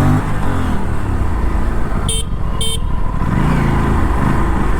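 Aprilia RS457's 457 cc parallel-twin engine running under the rider, its revs falling at first and then rising and dropping again near the end. Two short horn toots about two seconds in.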